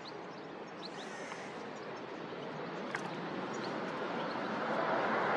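Jet engine noise of a Ryanair Boeing 737 on approach, a steady rumble growing gradually louder as the airliner comes closer. Faint short bird chirps sound over it.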